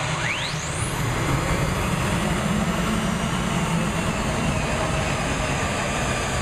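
Aircraft-engined pulling tractor running with a heavy, steady low rumble, a whine rising quickly in pitch over the first second.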